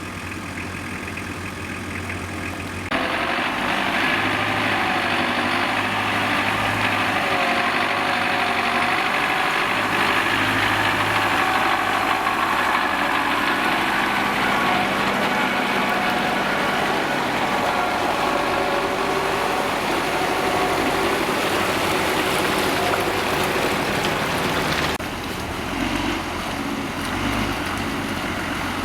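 Diesel truck engine idling, then about three seconds in it opens up and runs louder under load with a wavering pitch, easing back near the end.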